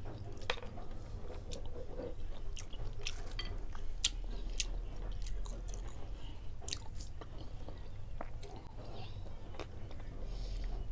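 Close-up chewing of orange segments: scattered wet mouth clicks and smacks, over a steady low hum.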